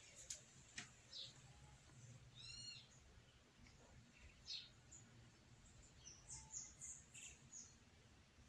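Near silence, with faint, scattered high bird chirps and calls and a few light clicks.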